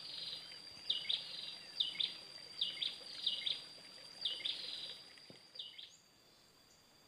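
A bird calling in short high chirps, often in pairs, about once a second, over a steady high-pitched whine; both cut off suddenly about six seconds in.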